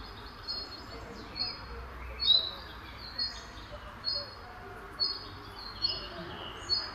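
A bird chirping, a short high note repeated evenly about once a second, over a steady background hiss.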